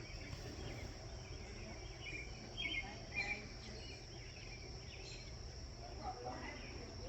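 Evening outdoor ambience: a steady, high-pitched drone of insects, with a few short bird chirps about two and a half to three and a half seconds in.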